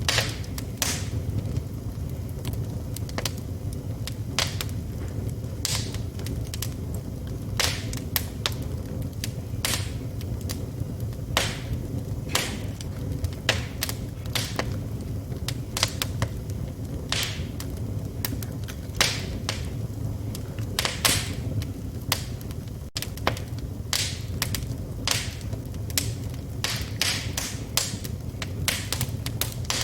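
Wood fire burning in a fireplace, crackling and popping irregularly, several sharp pops a second over a steady low rumble of the flames.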